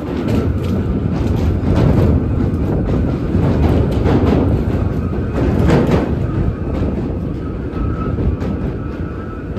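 New York City subway train running on the tracks: a loud, continuous rumble of wheels on rail with scattered sharp clicks and a faint steady high whine above it.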